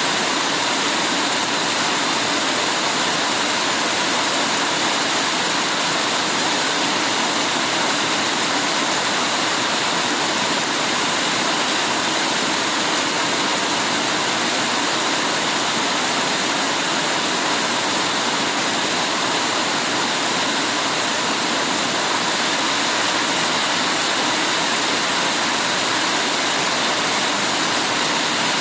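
Heavy rain falling steadily, an even unbroken hiss with no separate drops or breaks.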